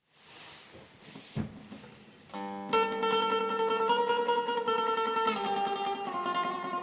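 Bağlama (long-necked Turkish saz) playing a melody in plucked, ringing notes that come in about two seconds in, after a faint hiss and a soft knock.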